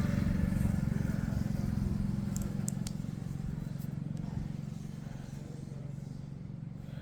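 Engine drone of a motor vehicle on the nearby road, loudest at first and fading away as it passes. A few light clicks come about two and a half seconds in.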